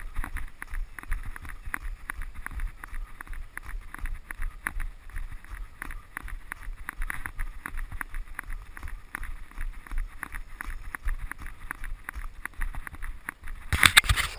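Jogging footsteps on a dirt trail, a steady run of rhythmic thuds with rustle, picked up by a head-mounted action camera. A louder brief scuffing burst comes near the end.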